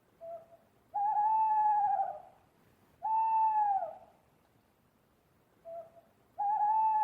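An animal calling three times, each call about a second long and slightly wavering, dropping at the end. A short, lower note comes just before the first and last calls.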